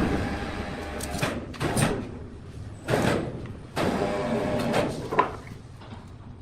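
Sawmill machinery working on a large log in short, repeated bursts of grinding and scraping: about five bursts, the longest lasting about a second around four seconds in, with a sharp knock soon after.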